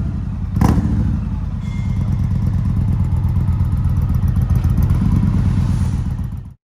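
Indian Challenger's liquid-cooled V-twin running steadily through a Freedom Performance Union 2-into-1 exhaust, a low, deep exhaust note with a brief louder burst about half a second in. The sound cuts off suddenly near the end.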